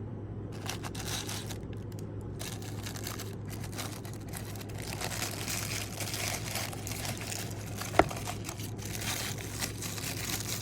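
Plastic packaging crinkling and rustling as items are handled and unwrapped, with one sharp click about eight seconds in, over a low steady hum.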